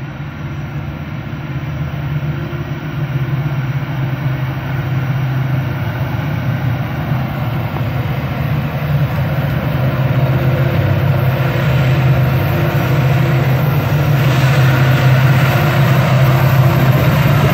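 Union Pacific diesel locomotives approaching through a railway tunnel: a low engine drone that grows steadily louder as the train nears the portal.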